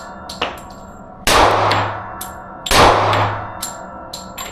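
Two gunshots about a second and a half apart, each ringing off into a long echoing decay, with light metallic clinks between and after them.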